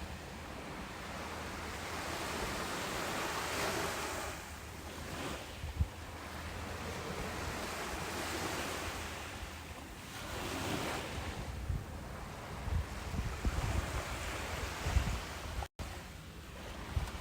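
Ocean surf washing onto a beach, rising and falling in slow swells of a few seconds each. Low rumbling gusts of wind buffet the microphone, and the sound cuts out completely for a split second near the end.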